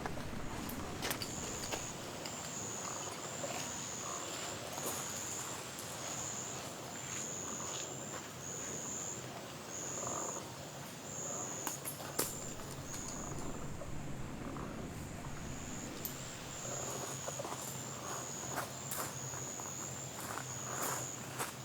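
Insect chirping: a high-pitched trill in short bursts that repeat at an uneven pace, with scattered small clicks and knocks close by.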